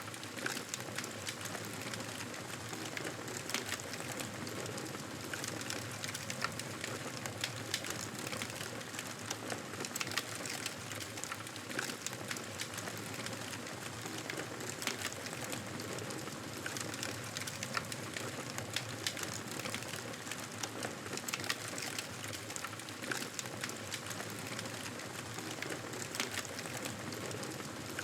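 Fireplace fire crackling: a steady hiss dotted with many small irregular pops and snaps.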